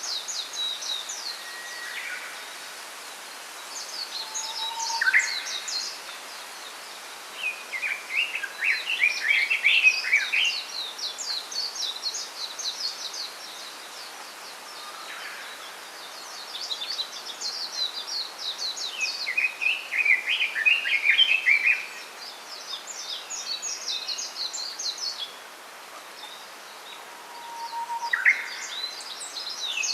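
Songbirds singing in a bamboo grove: repeated bursts of rapid, high twittering chirps, with a second, lower-pitched bird chirping in between and at times over them, above a steady background hiss.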